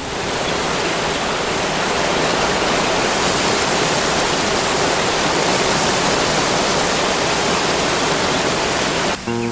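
Loud, steady rushing water, starting abruptly and cutting off suddenly near the end, where plucked acoustic guitar music comes in.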